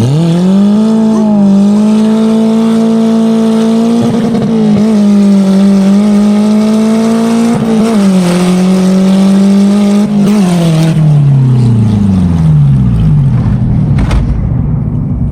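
Honda K24 inline-four with a hood-exit exhaust pulling hard under acceleration. The revs climb sharply at the start and hold high for about ten seconds with a few brief dips. They then wind down steadily over about three seconds.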